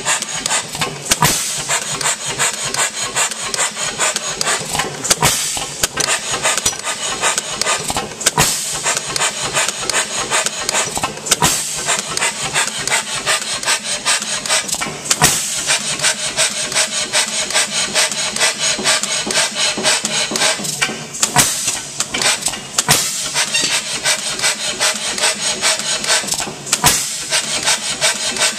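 H.M. Spence hit-and-miss gas engine running, with a rapid steady mechanical clatter and a sharper bang every few seconds at uneven intervals. These are its firing strokes, skipped while the governor holds it coasting on the flywheels.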